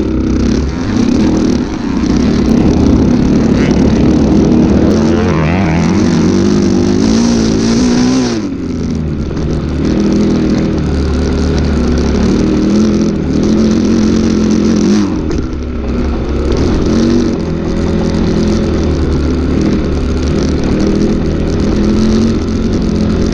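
Dirt bike engine running hard and revving up and down, with the revs dropping sharply about eight seconds in and again about fifteen seconds in.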